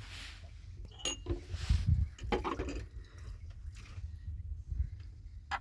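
Scattered knocks and clicks with brief scraping, over a low steady rumble.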